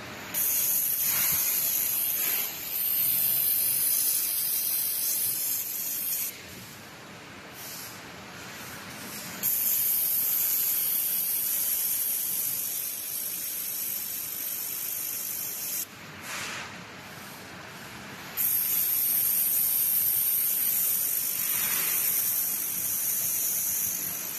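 Laser welding machine at work: a loud, high-pitched hiss of gas from the welding head, switched on and off in three long runs of several seconds, with a quieter steady hiss in the pauses between.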